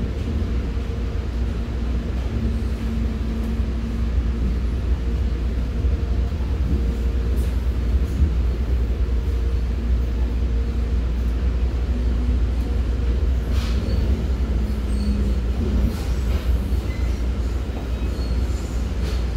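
Commuter train running, heard from inside a passenger car: a steady low rumble with a faint hum and a few sharp clicks.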